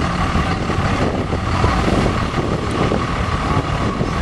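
Dodge diesel pickup truck engine running steadily and loudly, with no clear rise or fall in pitch.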